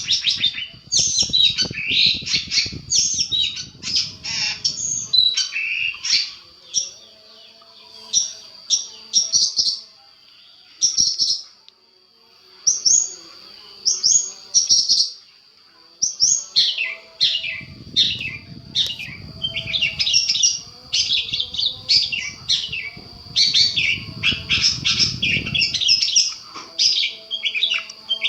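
Long-tailed shrike (cendet) singing a fast, varied song of short chattering and whistled notes, thinning out for a few seconds midway.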